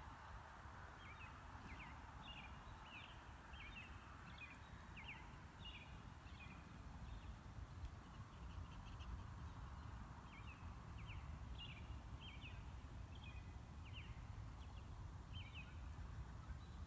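A small bird chirping in two runs of quick, repeated high notes over a faint, steady low outdoor rumble.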